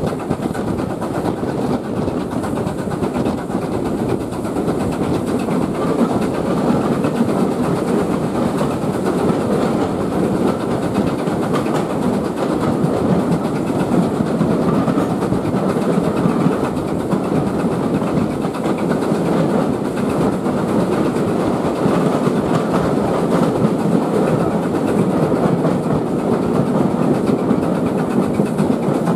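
Heritage steam railway train running along the line: a steady rumble of wheels on the rails.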